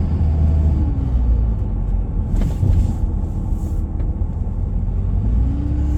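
Steady low rumble of a vehicle driving on a snow-covered road, heard from inside the cabin.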